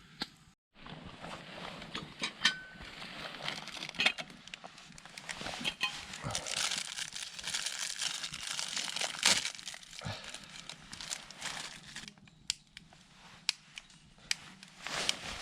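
Crinkling and rustling with many sharp clicks, loudest in the middle and thinning to scattered clicks near the end.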